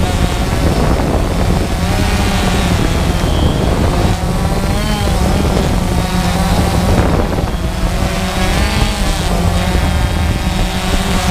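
DJI Phantom quadcopter's motors and propellers whirring loudly and steadily, the pitch wavering up and down as the motors change speed to manoeuvre, over a low rumble.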